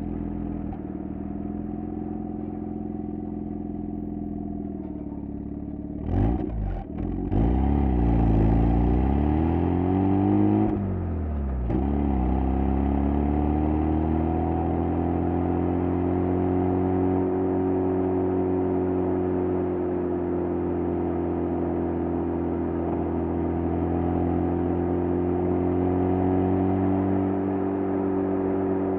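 Exhaust of a Mazda FD3S RX-7's twin-rotor rotary engine, recorded close to its stock muffler, running at a steady note. About six seconds in there are a few sharp clicks and the engine pitch dips and rises twice, as on gear changes, then it settles into a steady note to the end.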